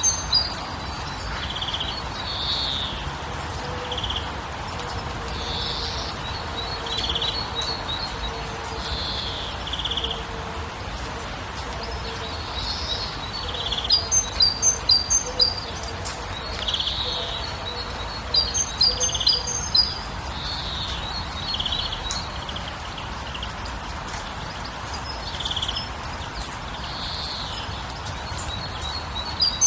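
Songbirds singing, with repeated phrases of quick high chirps and short warbled notes. The loudest runs of rapid notes come about 14 and 18 seconds in. Under them runs a steady background hiss.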